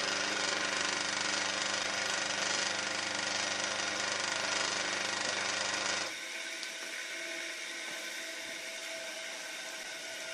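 AD-180 single-phase induction motor from a washing machine running on mains power with a steady electrical hum and whirr. About six seconds in, the low hum stops and a quieter whirr carries on.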